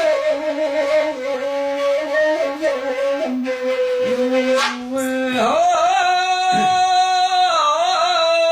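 Bedouin gasba, an end-blown reed flute, playing a melody of long held notes with short slides. About five seconds in, a male voice starts singing a long, wavering, ornamented line over it.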